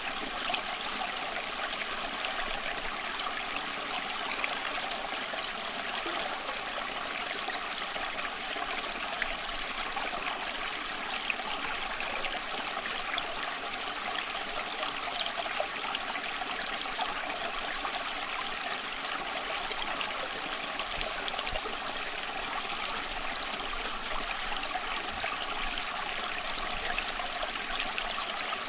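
A small stream running and trickling over stones, a steady rushing babble.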